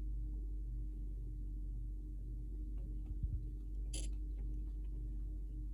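Quiet room tone: a steady low hum with a few faint ticks, a soft thump about three seconds in and one sharp click about a second later.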